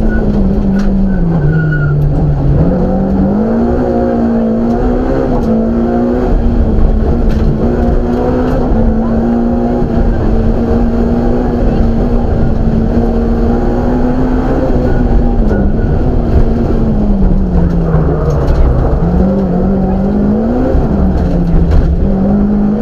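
BMW M3 rally car engine at full throttle, heard from inside the cabin, its revs held high for long stretches and dipping then climbing back about four times as the driver lifts and downshifts, over loud tyre and road noise.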